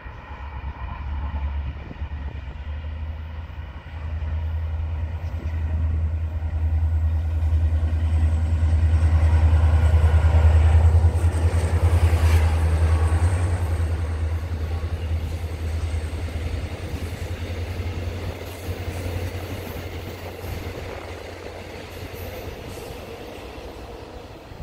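Freight train passing on the rails: a deep locomotive hum builds, is loudest about ten to twelve seconds in as the locomotive goes by, then the rumble of the freight wagons trails off.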